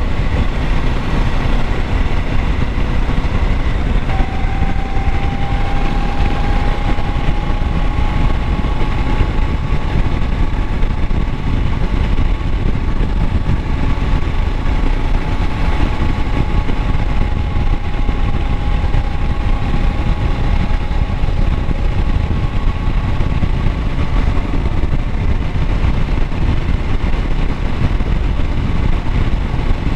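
2016 Kawasaki Versys 650's parallel-twin engine running steadily, with a faint steady whine that comes in about four seconds in and holds.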